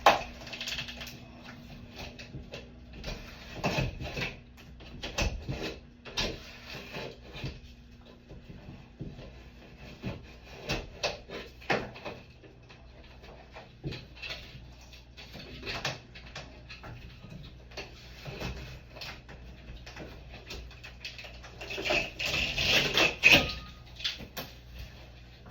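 Irregular knocking, scraping and clatter of hands and tools working a shower door frame loose from the silicone that holds it, with a louder stretch of scraping near the end.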